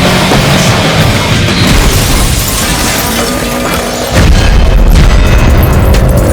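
Action-scene soundtrack mix: music over crash and impact effects, with a heavy, deep boom starting about four seconds in.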